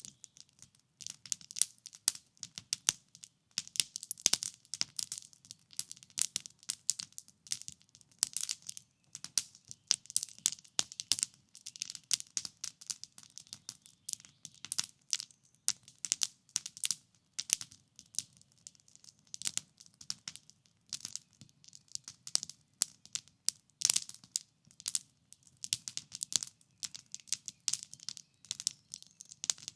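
Wood campfire crackling: dense, irregular snaps and pops, often several a second, over a faint low rumble.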